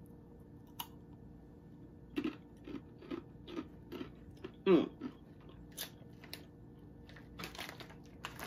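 Crunching and chewing of Takis hot chili pepper and lime rolled tortilla chips, short crunches coming about twice a second. A short hum of the voice about halfway through, and a rustle near the end.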